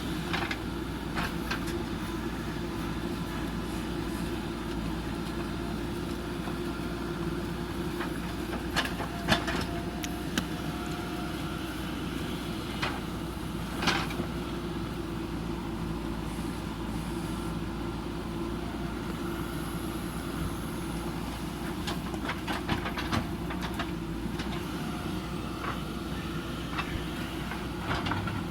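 JCB backhoe loader's diesel engine running steadily, with sharp metallic clanks and knocks from the working machine now and then, two louder ones about a third and halfway through.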